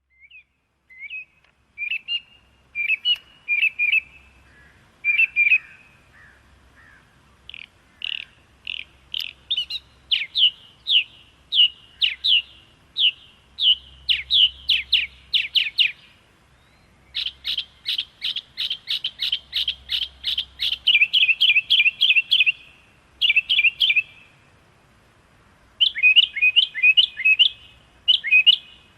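A small songbird chirping: runs of sharp, quickly repeated notes, several a second, broken by short pauses.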